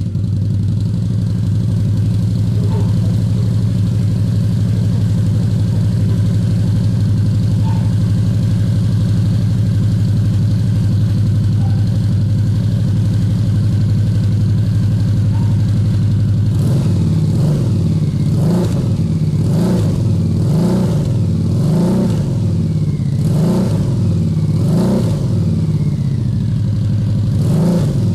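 The Harley-Davidson Night Rod-based trike's Revolution V-twin is running through a Vance & Hines muffler. It idles steadily, then about two-thirds of the way through it is blipped with short revs, roughly once a second.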